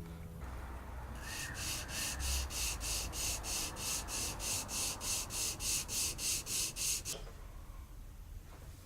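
Rhythmic back-and-forth hand-sanding strokes, about three a second, starting about a second in and stopping about seven seconds in.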